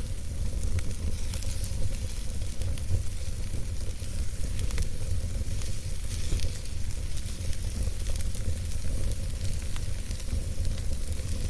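Campfire crackling and hissing, with many small irregular pops over a steady low rumble.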